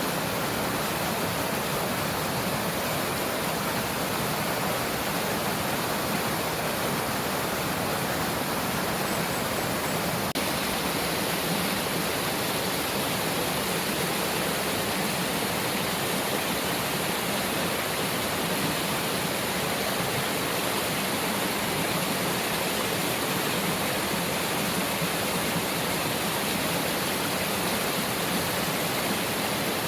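Mountain valley stream running, a steady unbroken rush of water.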